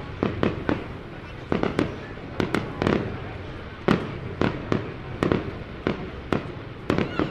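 Fireworks bursting: more than a dozen sharp bangs at irregular intervals, sometimes two or three close together, over a steady low rumble.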